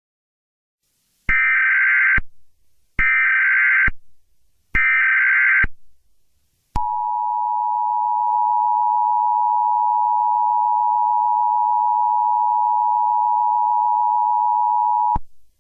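Emergency Alert System SAME header: three identical bursts of screechy digital data, about a second each with short pauses between. Then the EAS two-tone attention signal sounds as one steady, harsh tone for about eight seconds and cuts off abruptly.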